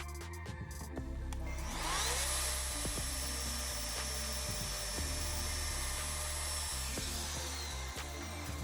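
Electric wood router motor spinning up with a rising whine about two seconds in, running at a steady high pitch, then winding down near the end.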